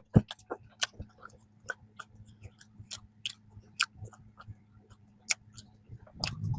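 Close-miked chewing of a strawberry danish: irregular wet mouth clicks and smacks, louder just after the start and again near the end, over a faint steady low hum.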